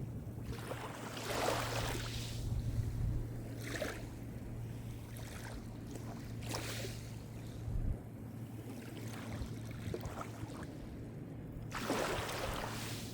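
Small Mediterranean waves breaking and washing on the shore in separate surges a few seconds apart, with a steady low hum underneath.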